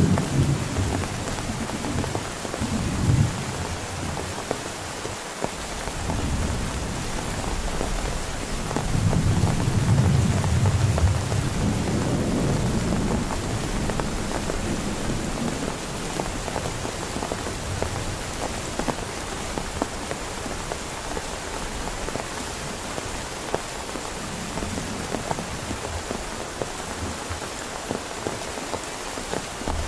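Heavy rain pouring steadily and pattering on a surface, with low rumbles of thunder at the start and again about ten seconds in.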